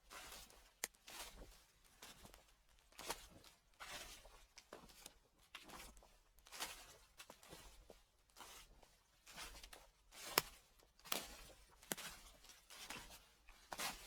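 Footsteps on fallen leaves: a rustling crunch with each step, about once a second, with a few sharper crackles.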